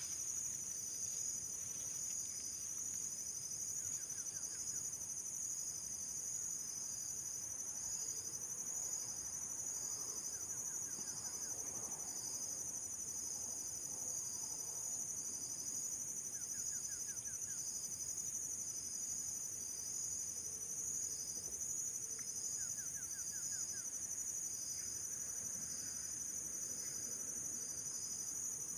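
Steady chorus of insects, probably crickets, a shrill high trilling that pulses evenly. A short, lower rapid trill comes about every six seconds.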